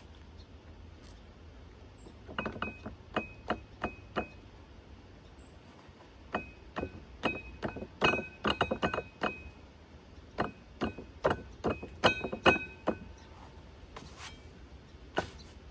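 Metal clinking and tapping on the sawmill's steel splitter hardware while it is being adjusted. The strikes come in quick irregular clusters, and many leave a brief bell-like ring.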